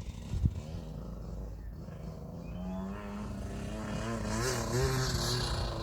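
KTM 65 SX's 65 cc two-stroke single-cylinder engine revving up and down as the bike is ridden, its pitch wavering. It grows louder over the last few seconds.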